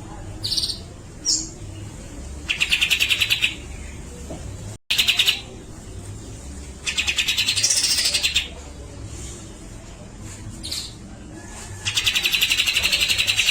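Grey-cheeked bulbul (cucak jenggot) giving its rapid rattling 'besetan' calls: three buzzy, fast-pulsed rattles of about a second each, a few seconds apart, with short sharp single notes between them.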